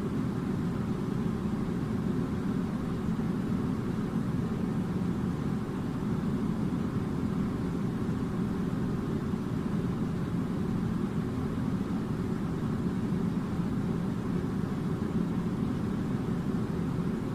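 Steady low rumbling hum that stays unchanged throughout, with no distinct events.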